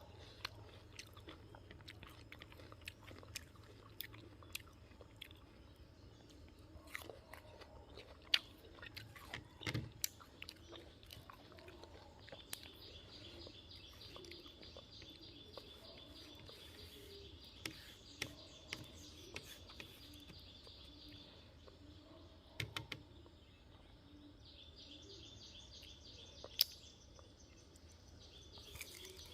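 Close-up chewing and crunchy bites of raw guava, with sharp crisp crunches scattered through. A rapid, evenly pulsed high chirping runs in the background for several seconds about halfway through and again near the end.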